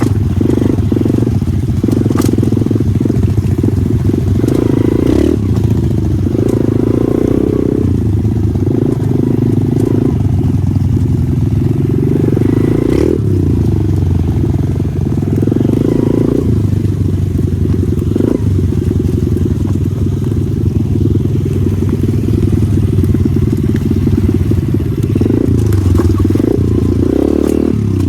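Single-cylinder pit bike engine being ridden hard, its revs rising and falling every second or two as the throttle is worked through mud.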